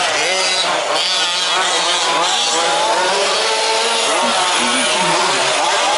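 Several 1/5-scale RC trucks' small two-stroke petrol engines revving up and down at once, each pitch rising and falling separately as they race.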